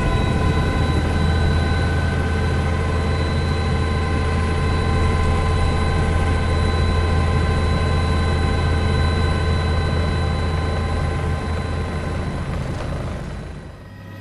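Steady drone of an aircraft's engine heard from on board, a strong low hum with a stack of steady higher tones. It fades down near the end.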